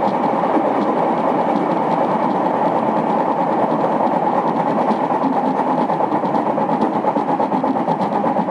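Odakyu 2000 series electric train running at speed, with a steady rumble of wheels on rail and a repeating knock from a flat spot worn on a wheel.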